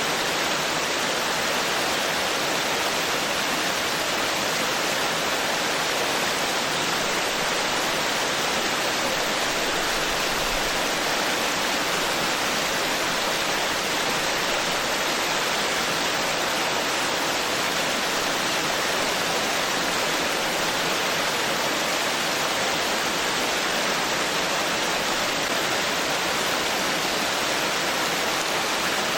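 Forest stream flowing: a steady, even rush of water with no pauses or changes.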